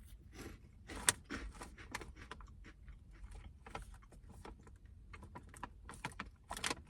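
Crunching of a light, airy puffed corn, rice and cauliflower snack being chewed, a run of soft, irregular crunches.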